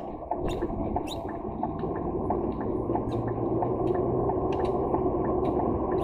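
Lorry engine and road noise heard inside the truck's cab, growing louder over the first couple of seconds as the truck gets going, with scattered light clicks and rattles.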